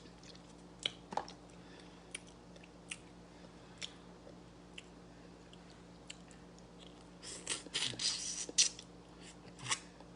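Close-up mouth sounds of someone eating stewed fish head: scattered wet smacks and clicks of chewing and sucking on the jaw bones, with a denser run about seven to nine seconds in. A faint steady hum lies underneath.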